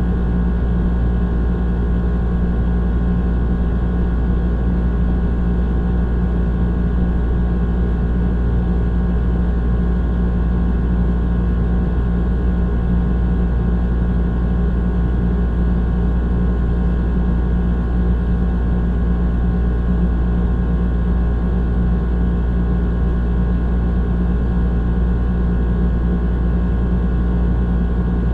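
Old air conditioner running: a steady low hum with a constant drone of several fixed tones above it, holding at one pitch and level.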